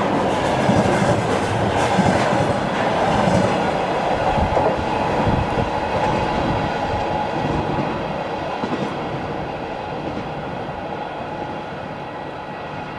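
Train wagons rolling past, wheels clattering over the rail joints, the sound fading away over the second half as the train moves off.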